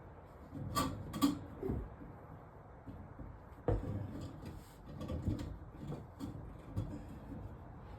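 Irregular knocks, clicks and rubbing from plumbing parts being handled during drain-pipe work, with two sharp knocks about a second in, another a little before four seconds, and a scatter of lighter ones after.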